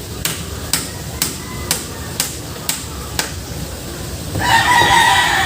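A hammer driving nails with steady strikes about twice a second, stopping about three seconds in. Then a rooster crows loudly near the end, its call falling away at the close.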